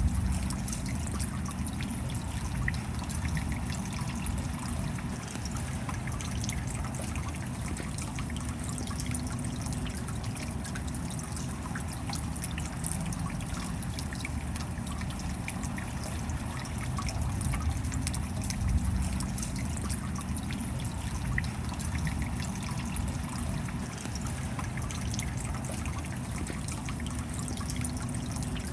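Steady rain with water trickling and dripping, many small drop ticks over a low, even rumble.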